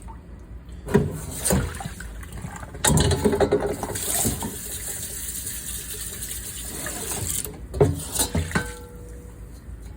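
Hand dishwashing at a kitchen sink: tap water running, with dishes knocking and clinking against each other and the sink about a second in, around three seconds in, and near eight seconds, where one piece rings briefly.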